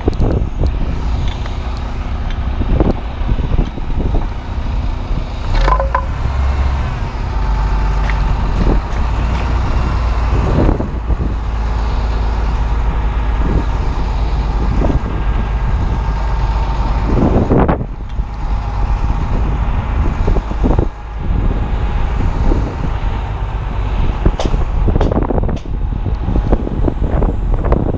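Strong wind buffeting the microphone, a heavy low rumble throughout, with scattered knocks and clatter on top.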